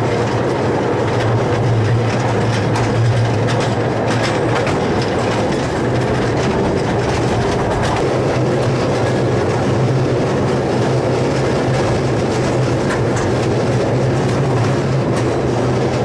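Riding aboard a small narrow-gauge miniature railway train: the steady running rumble of its wheels on the track, with light clicks over the rail joints.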